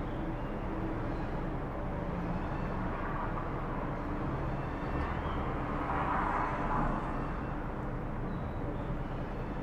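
Steady outdoor background noise with a low rumble, swelling for a couple of seconds around the middle before settling back.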